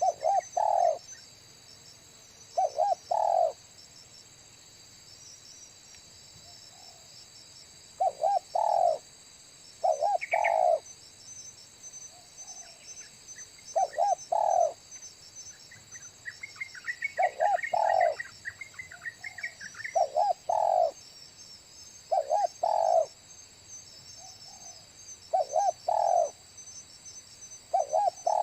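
Spotted dove (tekukur) cooing a repeated two- to three-note phrase about every two to four seconds: the decoy's lure call, to which wild doves respond. A steady high trill of insects runs underneath.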